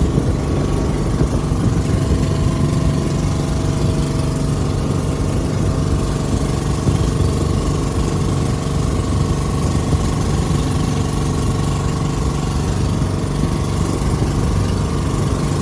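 A boat's engine running steadily and loudly at a constant speed.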